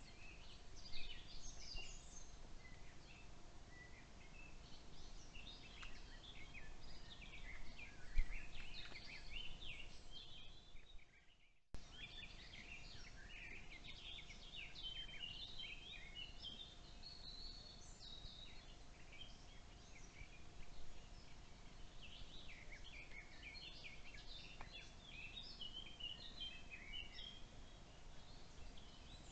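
Woodland birdsong: several small birds chirping and singing over a faint steady hum, with a low thump about eight seconds in and a brief break in the sound about twelve seconds in.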